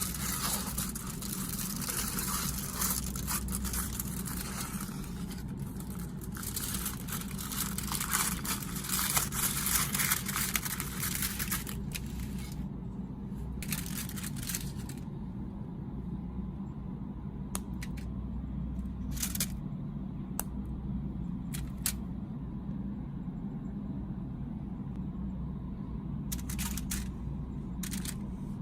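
Snack packaging crinkling and tearing open, a dense crackle for the first dozen seconds, then scattered light taps and clicks over a steady low hum.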